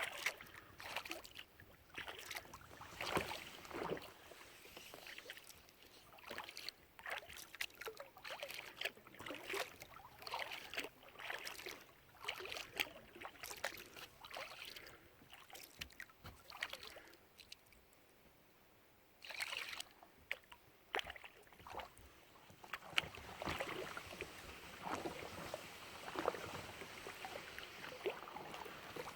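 Kayak paddle dipping and splashing in the water, with drips, in an irregular patter of small splashes. It falls quiet for a couple of seconds a little past halfway, then the splashing resumes.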